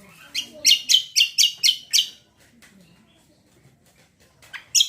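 A cucak kombo songbird calling in a fast series of sharp, high chirps, about four a second, for roughly two seconds. After a pause it starts another run of chirps near the end.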